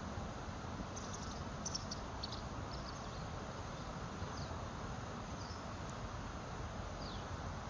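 Common kingfisher calling: short, thin, high-pitched calls, a quick cluster about a second in, then single calls that drop in pitch, every second or so. A steady low background hiss runs underneath.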